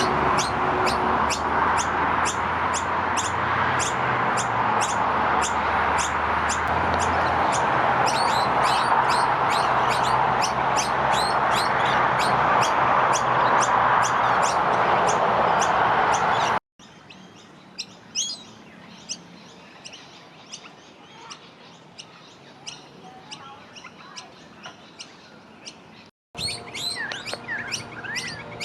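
Noisy miner fledglings begging: rapid, evenly repeated sharp high chirps, several a second, over a loud steady rushing noise. About two-thirds through it cuts to a quieter stretch of sparser chirps, then near the end the loud calling returns with a few falling notes.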